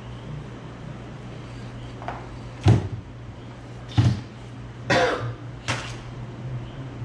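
Five short, sharp knocks and clicks of hard objects being handled and set down, the second the loudest, over a steady low hum.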